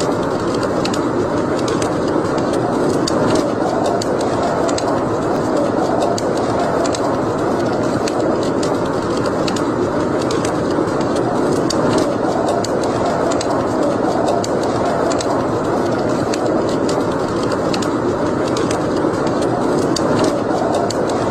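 Wood fire burning in a fireplace: a steady rushing noise with many small, sharp crackles and pops scattered throughout.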